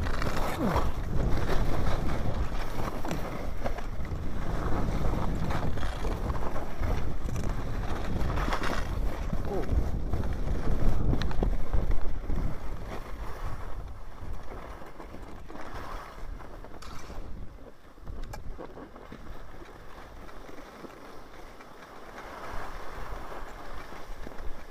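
Wind buffeting the microphone and the rumble of riding off-trail through a forest, heavy for about the first twelve seconds, then dropping to a quieter rush.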